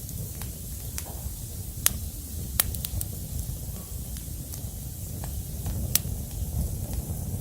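Wood fire burning: a steady low rumble and hiss, with a few sharp crackling pops scattered through it.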